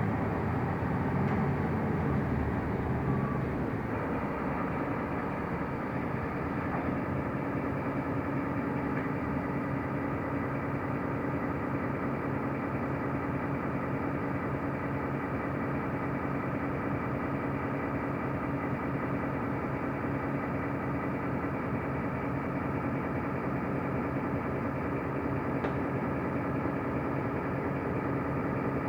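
Mercedes-Benz O345 Conecto LF city bus under way, heard on board: a steady engine drone with road and body noise. It is a little louder for the first few seconds, then settles.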